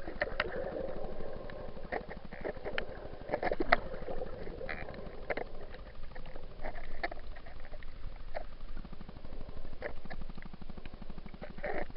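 Muffled underwater sound through an action camera's waterproof housing: water sloshing, with irregular sharp clicks and crackles throughout.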